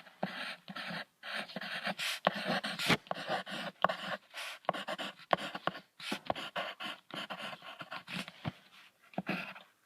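An animal making rapid, irregular huffing and panting sounds, a quick run of short breathy strokes with brief pauses.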